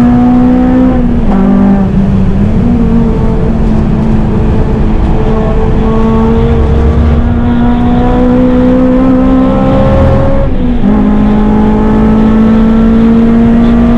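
Honda Civic Type R (FN2) four-cylinder K20/K24 engine pulling hard on track. The revs climb slowly and steadily through long gears, with a drop in pitch about a second and a half in and a short break and drop in pitch about ten and a half seconds in, where it changes up a gear.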